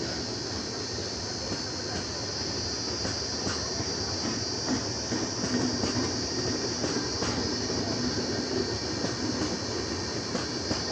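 Indian Railways passenger coaches (LHB, then ICF) rolling past close by: a steady rumble of wheels on the rails with scattered clicks at the rail joints, and a steady high-pitched whine throughout.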